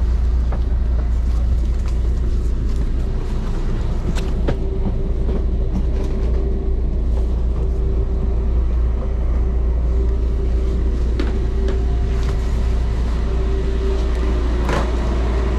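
Steady low rumble and hum inside a Tze-Chiang express train carriage stopped at a platform, with a steady mid-pitched tone running through it. Scattered short clicks and knocks.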